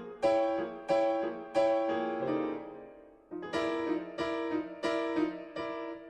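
Background piano music: chords struck one after another, each ringing and fading, with a short lull midway.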